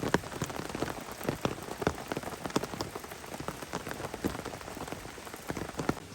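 Rain falling, with large drops tapping irregularly, several a second, over a steady patter.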